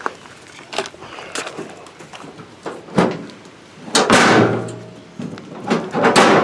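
Knocks and clunks of a car magnet being handled and fitted on the back of a car, the sharpest about three seconds in, with bursts of rustling about four seconds in and again near the end.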